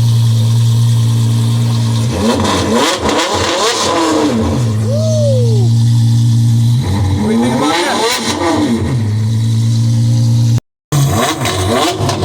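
Car engine idling, then revved hard twice, its pitch sweeping up and down each time, with the sound cutting out for a moment near the end.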